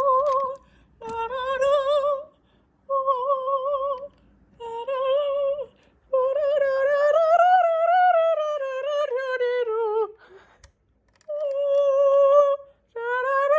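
A high voice singing wordless, operatic-style phrases with a wide, even vibrato. There are about seven phrases split by short breaths. The longest lasts about four seconds in the middle and slides down in pitch at its end.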